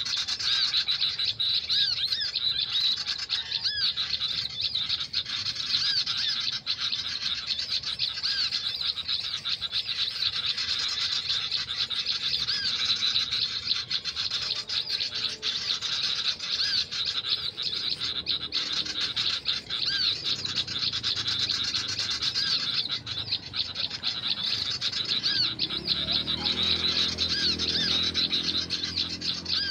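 A dense, continuous chorus of high, rapidly repeated bird chirps. A low droning hum comes in near the end.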